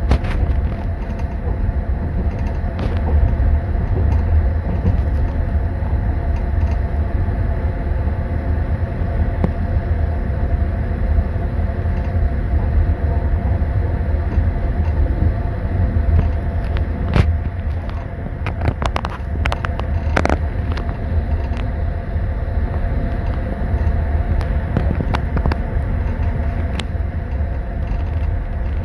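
Passenger train carriage running, heard from inside a compartment: a steady low rumble from the wheels and running gear. A short flurry of light clinks comes a little past the middle, typical of spoons rattling in tea glasses in metal glass holders.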